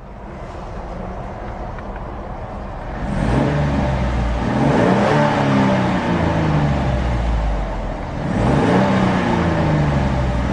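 2011 Jeep Wrangler's 3.8-litre V6 engine idling, then revved from about three seconds in, its pitch rising and falling several times, easing off briefly near eight seconds and rising again; a real raw sound.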